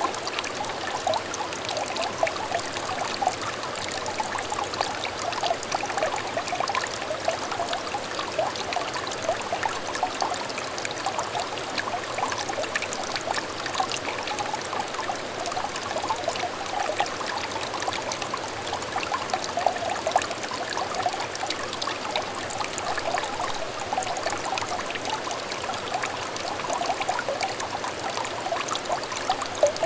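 Small stream water trickling and babbling steadily over stones, a continuous gurgling flow with many little splashy notes.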